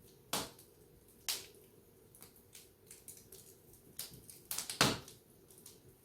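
A few sharp clicks and knocks in a quiet small room, with fainter ticks between them; the loudest come in a quick cluster about a second before the end.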